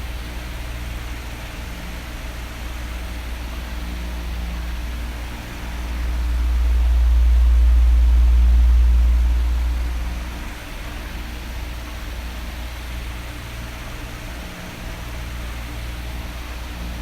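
Electric fan running steadily: an even whooshing hiss over a low hum. For about five seconds in the middle it swells louder, mostly as a deep rumble, then settles back.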